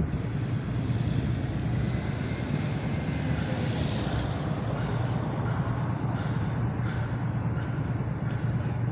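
Train running past with a steady low rumble, a faint high whine drifting in pitch about a third of the way in.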